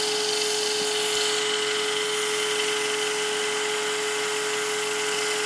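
An electric power tool running steadily: a constant motor whine over a hiss, with no change in speed.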